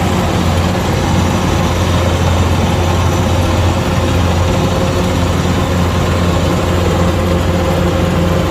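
Kubota DC-105X combine harvester running steadily: a constant engine hum with an even mechanical rush over it, unchanging throughout.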